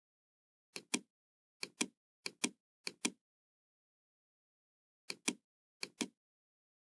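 Computer mouse button clicked six times, each click a sharp press-and-release pair: four in quick succession in the first three seconds, then two more after a pause.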